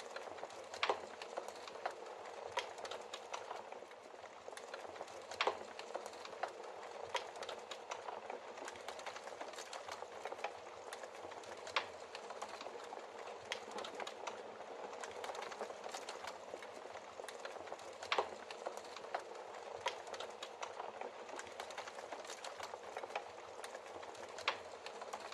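Wood logs burning in a fireplace: a steady hiss and flutter of flame with irregular crackles and sharp pops, the loudest pops about 1, 5½, 12 and 18 seconds in.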